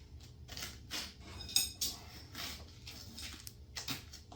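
Metal tools being handled and knocked together, with rustling and one sharp metallic clink that rings briefly about a second and a half in.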